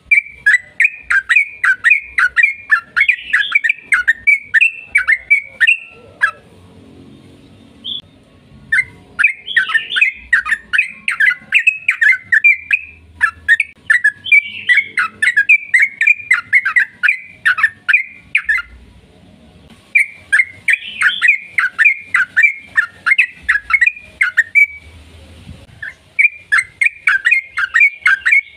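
Yellow-vented bulbul (trucukan) singing a long, rapid run of bubbling, chattering notes, about three to four a second. The runs last several seconds each, with short pauses between them.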